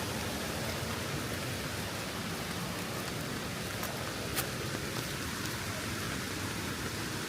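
Steady rain falling, with a couple of sharp ticks about four seconds in.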